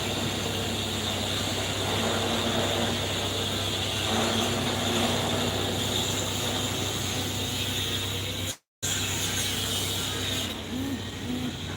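Heavy excavation machinery, most likely an excavator, running steadily with a constant engine hum and mechanical clatter. The sound cuts out completely for an instant about two-thirds of the way through.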